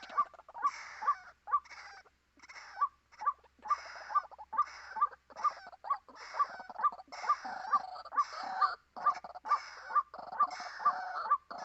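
White-breasted waterhen calling: an even, rapid series of harsh 'kwak' notes, about two to three a second, without a break.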